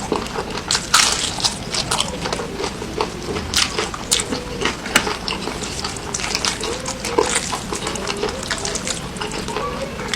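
Close-miked wet chewing and mouth smacking, with many sharp crackly clicks throughout.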